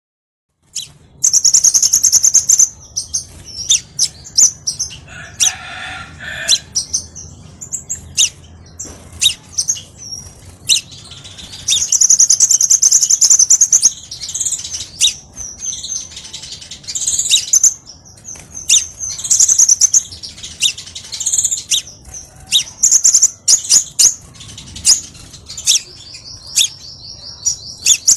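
Crimson sunbird singing: rapid, high-pitched twittering and trills in repeated bursts, with sharp chips between them.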